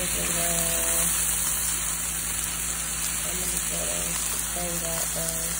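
Brussels sprouts and fried rice sizzling steadily in an oiled skillet while a spatula stirs them.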